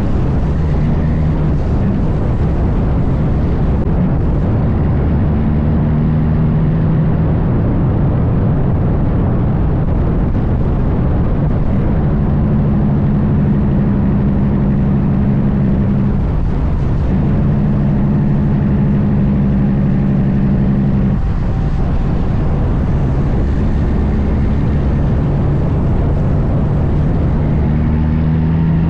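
Heavy diesel truck engine pulling steadily on the highway. Its low engine note drops out briefly twice, about sixteen and twenty-one seconds in, then picks up again.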